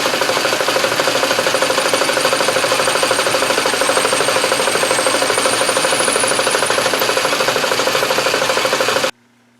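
Metal lathe running and cutting brass stock: a loud, steady machine noise with a fast, even pulsing. It cuts off suddenly near the end.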